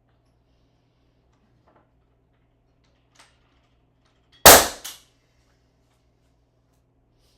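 Ramset powder-actuated nail gun firing once: a sharp, loud gunshot-like bang as the powder load drives a pin, with a smaller second crack right after it. A faint click comes about a second before the shot.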